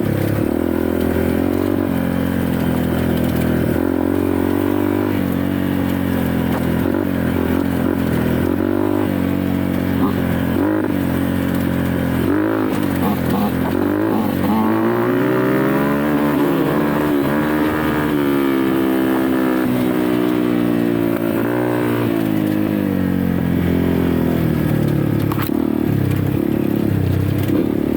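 Dirt bike engine running under a rider's throttle, its pitch rising and falling over and over as it revs up and eases off, with one long climb in revs around the middle.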